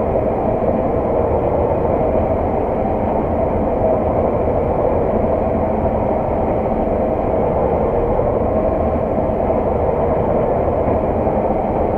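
Steady drone of a working harvest machine's engine and drivetrain, heard from inside its cab.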